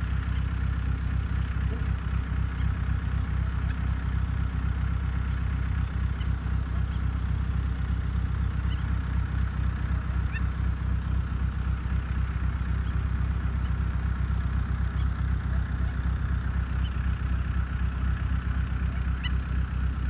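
A steady low engine rumble, with faint, short high peeps from young birds scattered through it, about one every few seconds.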